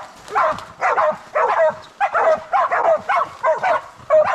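Bailing dogs barking rapidly and continuously, about three barks a second, holding a wild pig at bay.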